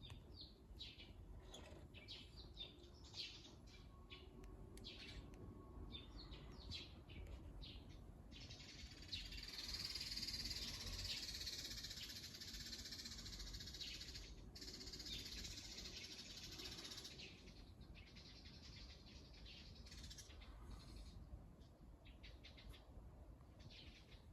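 Small birds chirping faintly with many short, high calls. For several seconds in the middle a denser high hiss rises over them, then thins out again.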